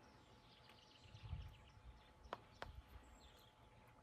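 Near silence: faint outdoor ambience with faint high chirps. There is a soft low thump about a second in, and two sharp clicks in quick succession about two and a half seconds in.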